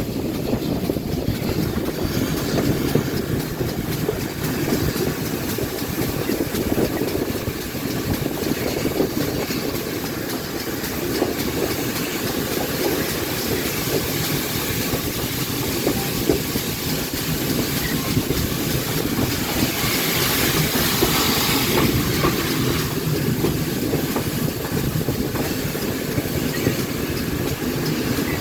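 Steam-hauled train behind GWR pannier tank 1369 and TKh 5374 rolling into a station, its wheels clattering over the rail joints. About twenty seconds in, a louder high hiss lasts for around three seconds.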